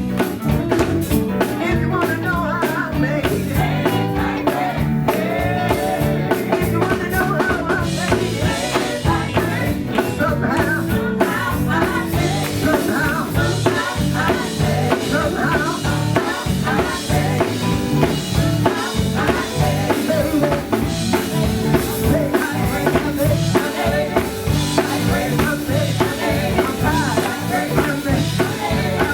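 A live gospel band playing, with a drum kit keeping a steady beat under instruments and singing.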